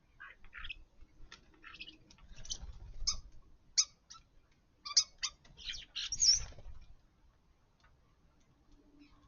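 Starlings at garden feeders, a flurry of short chirps, squeaks and whistled calls lasting about six seconds.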